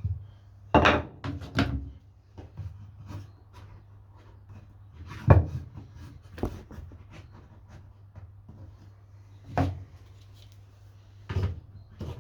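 A wooden board being handled and set in place: scattered knocks and clunks, with a cluster in the first two seconds and the loudest knock about five seconds in, over a low steady hum.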